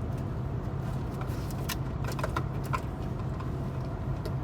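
Steady low hum inside a parked car with the engine or air conditioning running, with a few light clicks of small objects being handled around the middle.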